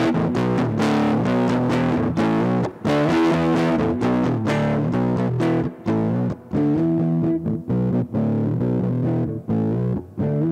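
Squier Starcaster electric guitar played through a Big Ear Pedals LOAF medium-gain fuzz pedal: distorted, woolly chords struck in a rhythmic pattern, with a few brief breaks and changes of chord.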